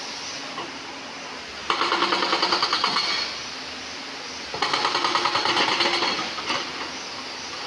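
Excavator-mounted hydraulic rock breaker hammering stone in two bursts of rapid blows, about ten a second. The first burst starts a little under two seconds in and the second about four and a half seconds in, each lasting under two seconds, with the machine running more quietly between them.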